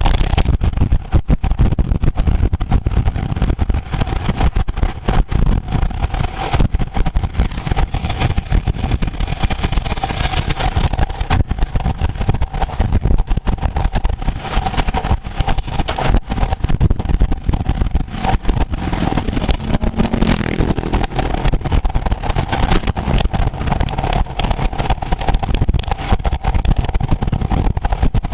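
Wind buffeting a moving camera's microphone, a continuous rough rumble with rapid fluttering, over a steady hum.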